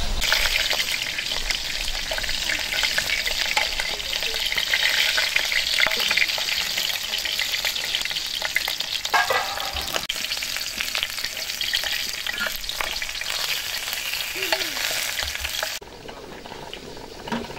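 Food frying in hot oil in a pan: a steady crackling sizzle that drops away suddenly near the end.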